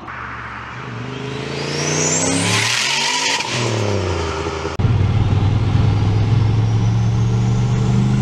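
Turbocharged LS1 V8 with a Borg Warner S366 SX-E turbo accelerating: the revs climb with a rising turbo whistle, then the throttle shuts with a burst of hiss and the revs fall. After a sudden jump in level, the engine pulls steadily under boost in a higher gear, with a faint turbo whine slowly rising.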